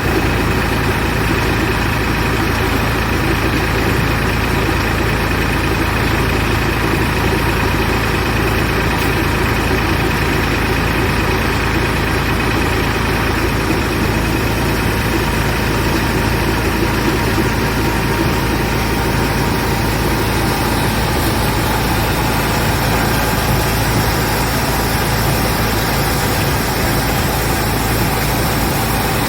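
Cabbage washing machine running steadily: a constant mechanical drone with a low hum beneath it.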